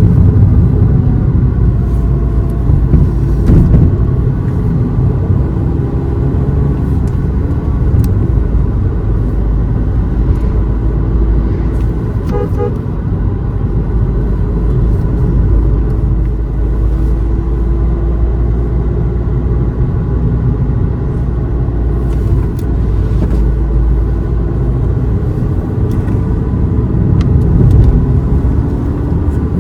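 A car driving along a road: a steady, low engine and road rumble.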